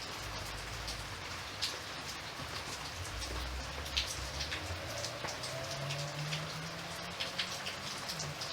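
Steady rain falling, with scattered individual drops tapping sharply, one about halfway through and a few close together near the end.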